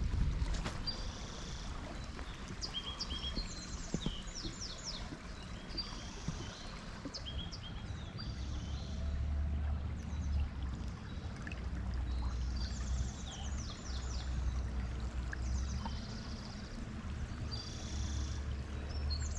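A small songbird sings the same short phrase of high, quickly falling notes over and over, every few seconds, over a steady outdoor hiss and patches of low rumble.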